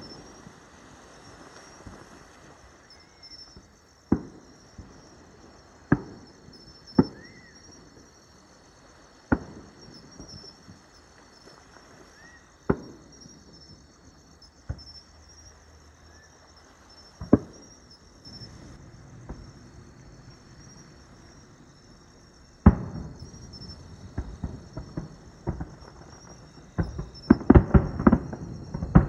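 Aerial fireworks bursting: single sharp booms a few seconds apart, then, about two-thirds of the way in, a louder stretch that becomes a rapid flurry of bangs near the end. Insects chirr steadily and high-pitched underneath.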